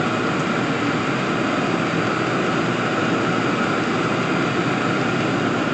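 Vevor diesel air heater running at full heat: a steady whooshing hum from its blower fan and burner, with an even higher-pitched tone held throughout.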